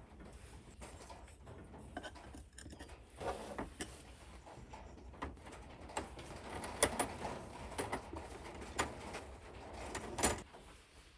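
Irregular light clicks and knocks of small metal parts and hand tools being handled during engine work, with a few sharper knocks near the middle and near the end.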